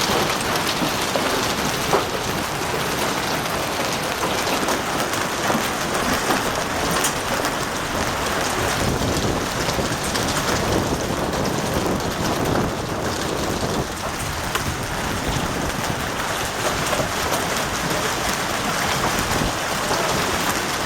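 Large hailstones and rain pelting down and striking hard surfaces: a dense, steady clatter with scattered sharper impacts standing out.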